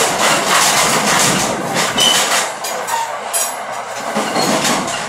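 Passenger rail car running at speed, heard from inside the car: a steady rumble of wheels on the track with a run of repeated clacks from rail joints. It eases off slightly near the end.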